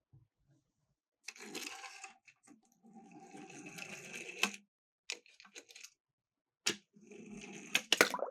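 Miniature toy cars rolling down a slope in two runs of about a second and a second and a half, the second ending in a sharp clack, followed by separate clicks and knocks, with a last quick cluster of clatter near the end.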